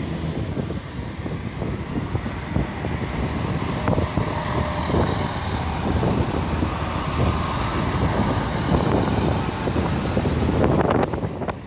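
A GWR diesel multiple unit running along the platform: a steady low engine hum under the rumble of the coaches, with wheels clicking over the rail joints.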